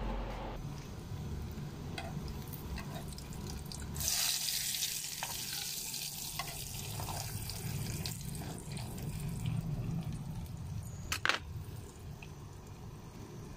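Food sizzling in a hot pan: a hiss starts suddenly about four seconds in and slowly dies down, with small utensil clicks and one sharp knock near the end.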